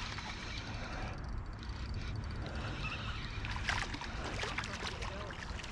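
Steady wind rumble and flowing creek water, with a few short clicks and splashes about four seconds in.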